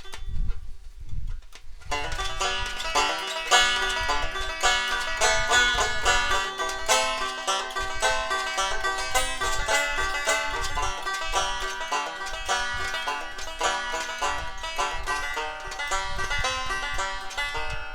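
Acoustic plucked string instrument playing a picked instrumental intro, a steady run of quick notes starting about two seconds in, after a few low thumps.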